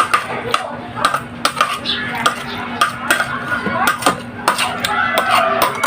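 Cutlery clinking and scraping against a plate while eating, as a string of short, irregular clicks, several a second.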